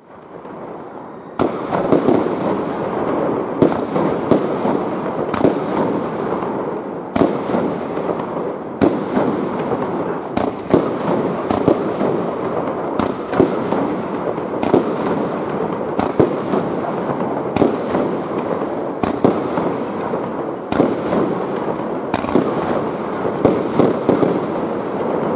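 Fireworks display: a dense barrage of aerial shells bursting, with many sharp bangs a second over a continuous crackle. It starts suddenly about a second and a half in.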